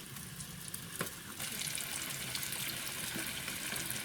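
Food sizzling in a frying pan: a crackling hiss that grows louder about a second and a half in, with a single sharp click about a second in.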